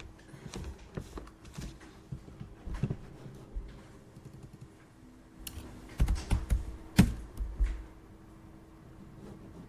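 Office desk sounds: irregular clicks and taps of a computer keyboard and mouse, with a few louder thumps about six to seven and a half seconds in, over a faint steady hum.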